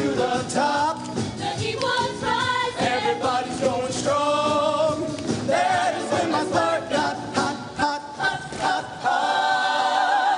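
Show choir singing in harmony over music, with a long held chord near the end.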